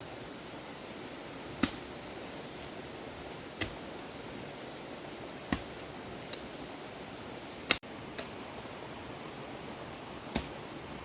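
Sharp single knocks, about one every two seconds, some louder than others, over a steady background hiss.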